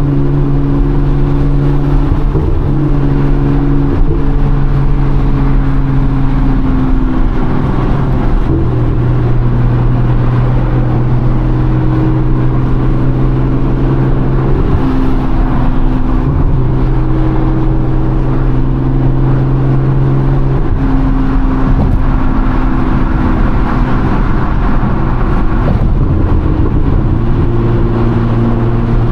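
Nissan R35 GT-R's twin-turbo 3.8-litre V6, built with full bolt-ons, droning loud and steady at cruise, heard inside the cabin over road and tyre noise. Its note steps down and back up in pitch a few times.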